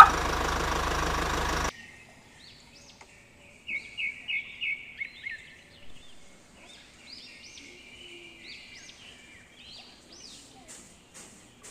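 A loud machine running with a fast rattle cuts off abruptly about one and a half seconds in. Birds then sing and chirp, with a quick run of about six bright chirps and scattered calls after it.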